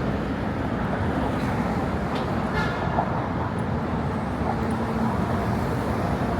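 City street traffic noise: a steady rumble of passing vehicles, with a brief higher-pitched tone about halfway through.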